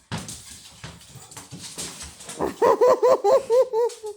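Dog whining in a quick run of short rising-and-falling whimpers, about six a second, ending on a slightly longer note. It comes after a couple of seconds of rustling, scuffling noise.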